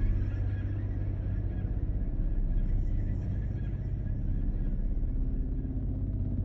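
Low, steady rumbling drone of a dark ambient soundscape, with a faint higher hum above it.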